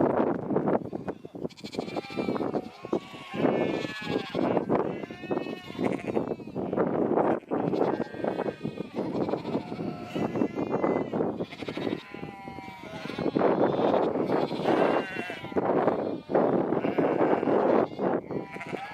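A flock of sheep bleating, many calls overlapping with hardly a gap.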